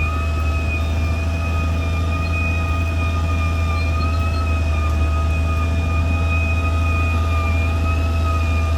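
CAT D6R bulldozer's diesel engine running steadily under load, a deep drone with a high, slightly wavering whine over it.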